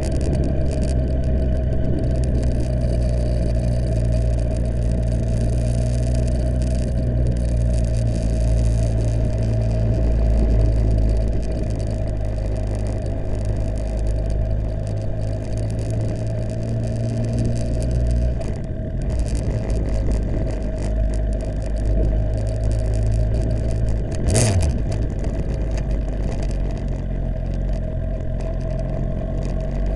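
Suzuki GSX-R1000 K7's inline-four engine running at low revs as the bike rolls slowly through town traffic, a steady low drone that eases a little past the middle. A single brief sharp knock comes about three-quarters of the way through.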